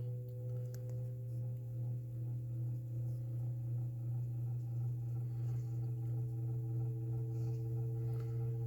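Lasko 3733 box fan motor cold-starting: a strong steady hum with fainter higher tones that slowly rise in pitch as the cold, stiff fan gradually gains speed.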